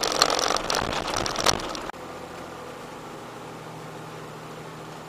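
A loud, irregular clatter of clicks and knocks for about the first two seconds, which cuts off abruptly. Then a steady low drone of a 4x4's engine and tyres at walking pace, recorded by a dashcam inside the cab.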